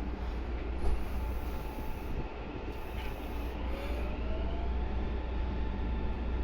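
Meitetsu 3150 series electric train running, heard from the cab: a steady low rumble of the running train with a knock about a second in and a faint whine that rises in pitch around the middle.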